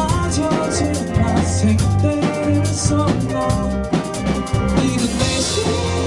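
Live rock band playing: drum kit with bass drum and snare hits driving a steady beat under bass guitar and electric guitars.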